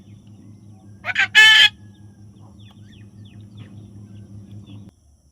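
A parrot gives one harsh squawk about a second in, two short notes and then a longer one, followed by a few faint chirps.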